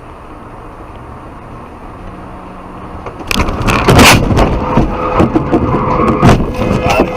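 Steady road and engine noise from a moving car, then, about three seconds in, a car crash: a sudden loud impact followed by several seconds of banging, cracking and scraping, loudest about a second after the first hit.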